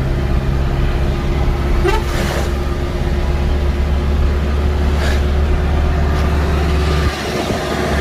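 Loaded truck's engine pulling steadily uphill, with a vehicle horn tooting over it. The engine's deep drone drops off about seven seconds in.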